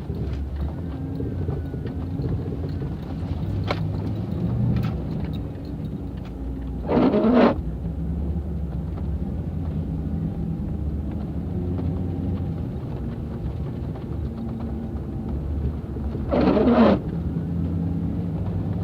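A motor vehicle's low, steady rumble, with two short louder noisy bursts, one about a third of the way in and one near the end.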